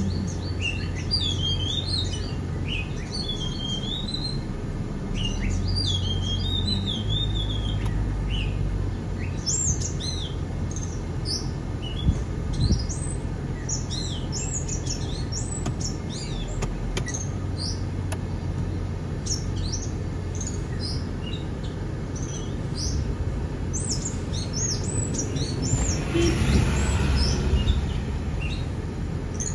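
Many birds chirping and calling, short rising and falling whistled notes, over a steady low rumble; a louder rushing swell comes near the end.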